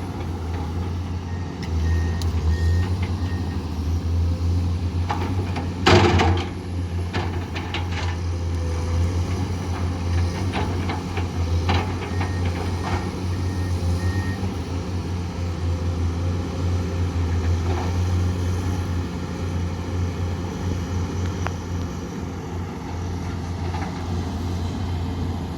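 Heavy diesel construction machinery running steadily with a low drone. Twice, a short run of high back-up alarm beeps sounds, and about six seconds in comes one loud metallic clank among a few lighter knocks.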